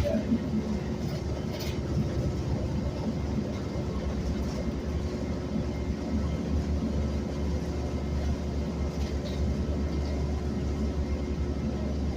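City transit bus running, heard from inside the cabin: a steady low engine and drivetrain drone with a faint steady hum above it.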